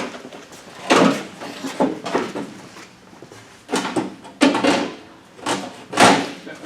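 A run of irregular metal clunks and scrapes, about ten in all, as tractor parts and tools are handled and set in place.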